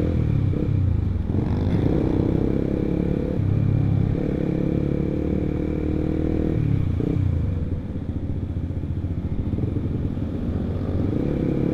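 Honda CBR150R's single-cylinder engine with an aftermarket R9 exhaust, running under way on the road. The revs climb about a second in, hold steady, change near seven seconds, and run a little quieter for a couple of seconds before picking up again near the end.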